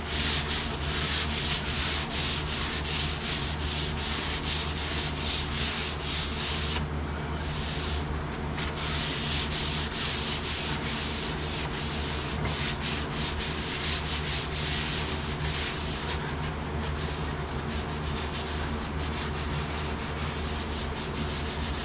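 Sandpaper being rubbed by hand in quick back-and-forth strokes over the painted sheet-metal roof of a truck cab, scuffing the old paint to show up dings. The strokes pause briefly about 7 and 16 seconds in, over a steady low hum.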